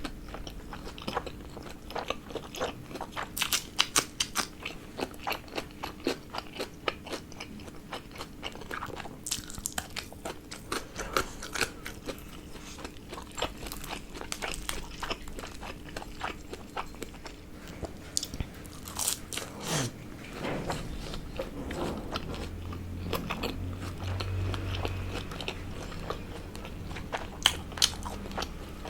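Close-miked eating: a person biting and chewing food with crisp, crunchy clicks coming in quick runs, loudest a few seconds in and again near the middle.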